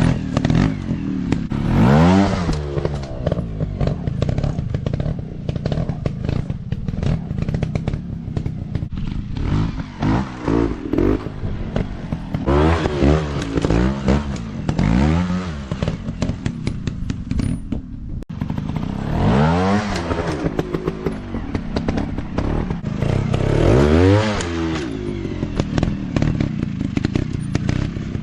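Dirt bike engine revving, its pitch climbing sharply again and again, about six times, over a steady engine run with some clatter.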